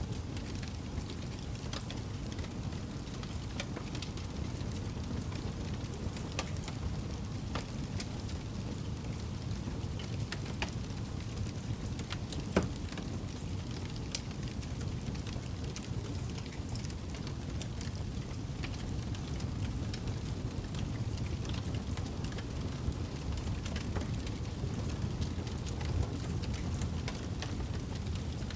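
Wood campfire crackling, with scattered small pops and snaps over a steady low rush of the flames, and one sharper pop a little before halfway through.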